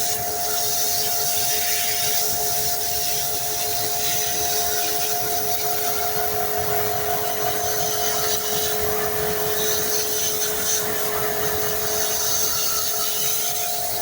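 A motor running steadily: a continuous noise with two steady whining tones.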